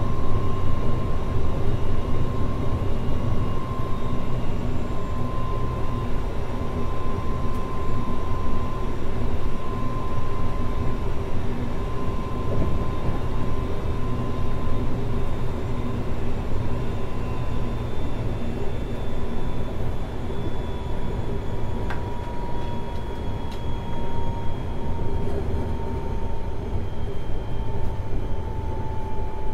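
Running noise of a Semboku Rapid Railway 7020 series electric train, heard from above the bogie of a motor car: a steady rumble of wheels on rail with a whine that drifts slowly lower in pitch. There is a single short click about two-thirds of the way through.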